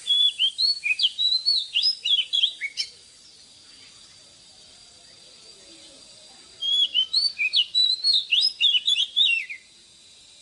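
Oriental magpie-robin singing two phrases of quick, varied whistled notes that slide up and down, with a pause of about three and a half seconds between them.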